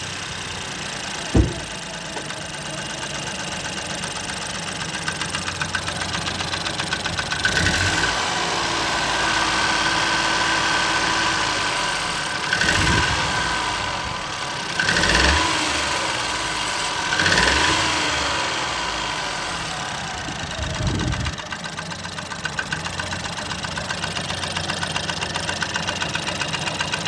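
Ford Fiesta 1.0 EcoBoost three-cylinder turbo petrol engine running just after starting, idling with a sharp knock about a second and a half in and a regular pulsing knock, and briefly revved about five times; the knocking is the fault being shown.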